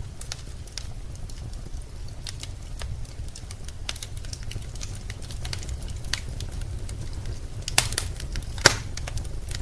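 Wood fire in a fireplace crackling, with irregular small pops and two louder sharp pops near the end, over a low steady rumble.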